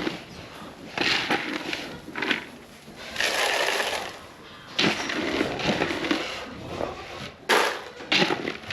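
Dry grain feed being scooped and poured, rustling and hissing, with a few sharp knocks near the end.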